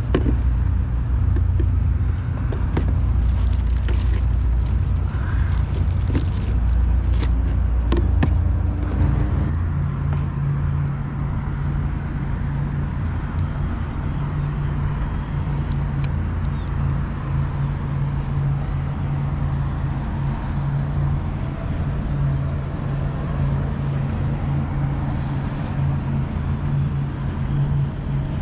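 Electric trolling motor (Minn Kota Terrova) humming steadily to hold the kayak in place. Its pitch steps up about nine seconds in. A few light clicks and knocks come in the first several seconds.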